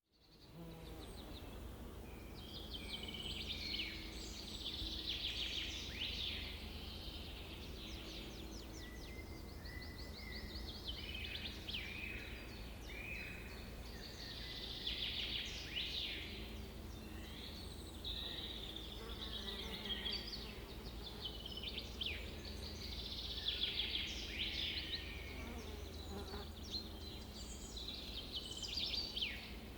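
Wild birds singing and calling, several overlapping songs of quick chirps and trills repeating throughout, over a low steady rumble.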